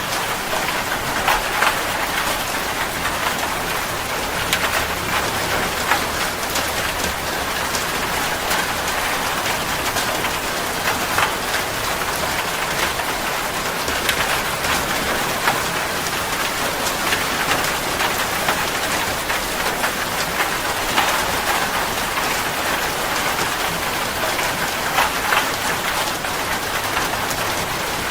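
Steady rain falling on a surface: a constant hiss full of individual drop ticks and splatters.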